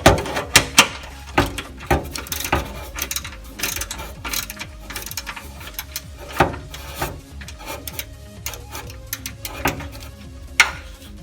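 Irregular metallic clicks and clanks from hand tools and exhaust parts being worked loose under a car, with a few louder knocks.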